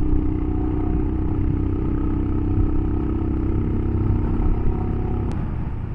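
Royal Enfield Himalayan's single-cylinder engine running steadily under way on a climbing road; about five seconds in, the engine note drops.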